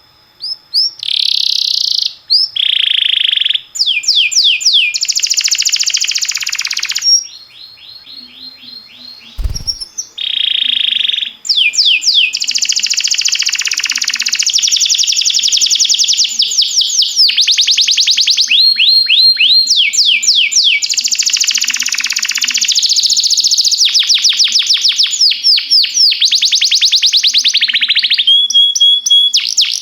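Domestic canary singing a long song of rapid trills, each a fast run of repeated notes, with a quieter stretch of softer notes about a quarter of the way through. A short dull knock sounds during that quieter stretch.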